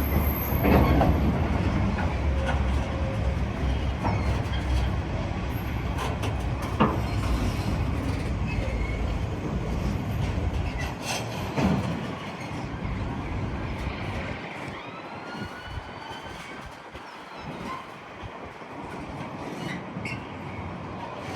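A train moving through the station: a heavy low rumble with a few sharp clicks, dying away about halfway through. A brief squeal that rises and falls follows a few seconds later.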